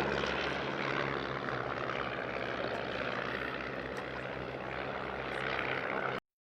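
Piston engine and propeller of a Stampe biplane, a steady low drone; the sound cuts off abruptly near the end.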